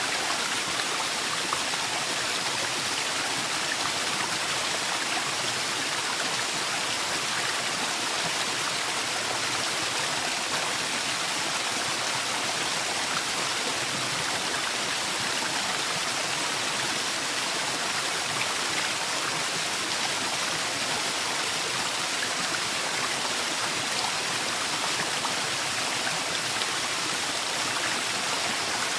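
Waterfall in a forest: a steady, even rush of falling water.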